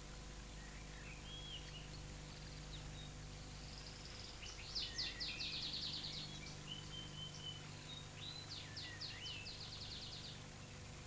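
Faint birdsong: scattered high chirps, with two quick rattling trills about halfway through and again near the end, over a steady hiss and hum.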